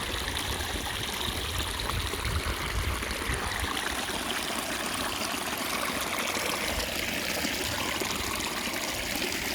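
Spring water flowing and trickling steadily, a continuous babble of running water.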